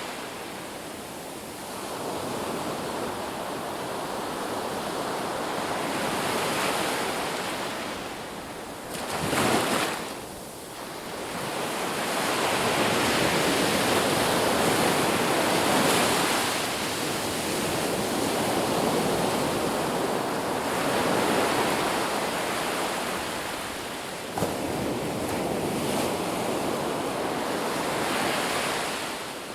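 Ocean waves breaking and washing on a beach: a continuous surf noise that swells and ebbs, with one sharper, louder wave crash about nine seconds in.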